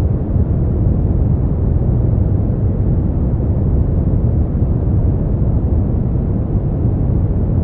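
Steady sleep-aid white noise: an even, unbroken rushing sound weighted toward a deep low rumble, with little hiss in the highs.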